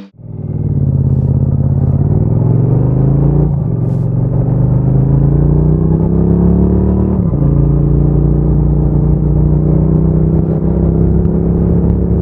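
Norton Commando 961 motorcycle's parallel-twin engine pulling away under acceleration. Its pitch rises, breaks about three and a half seconds in, rises again, drops about seven seconds in, and then runs steadily.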